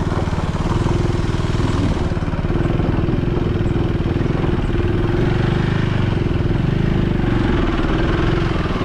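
KTM motorcycle engine running steadily at an even pace, without revving.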